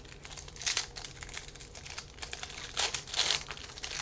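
Trading cards being handled and flipped through: papery rustling and crinkling in a run of short scrapes, loudest about a second in and twice near the end.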